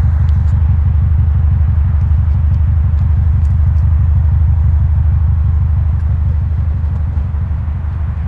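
1999 Subaru Legacy B4 twin-turbo 2.0-litre flat-four boxer engine running steadily, with a deep, even low pulsing from the exhaust.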